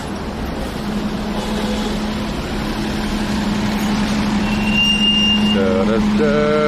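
Running noise inside a moving city transit vehicle: a steady motor hum over road or rail rumble, slowly growing louder. A brief high tone sounds about four and a half seconds in, and steady electronic tones start near the end.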